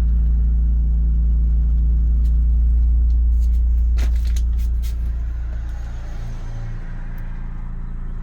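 Engine of a 2000 Chevrolet E450 truck idling steadily. A few sharp clicks come about four seconds in, then the idle gets quieter and its low hum changes.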